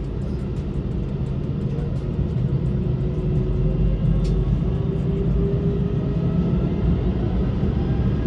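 Airbus A321's jet engines and airframe rumble heard from inside the cabin: a steady, heavy low rumble with an engine tone that rises slightly in pitch in the second half.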